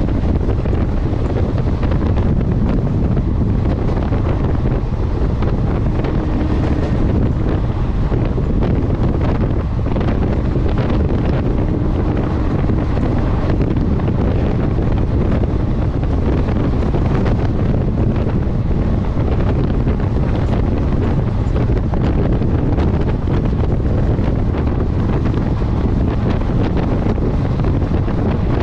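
Wind buffeting the microphone over the steady low rumble of a moving passenger train.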